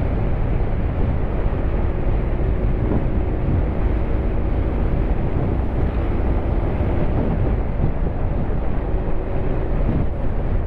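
Honda X-ADV 750's parallel-twin engine running steadily on the move, under a constant low rumble of wind and road noise.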